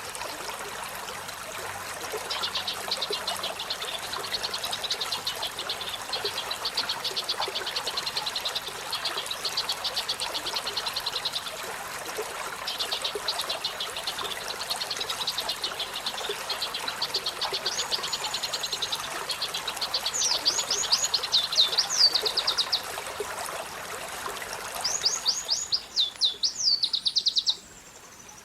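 Olive-backed sunbird singing long, rapid, high-pitched trills. In the second half come faster up-and-down sweeping notes. Under the song is a steady background hiss that cuts off shortly before the end.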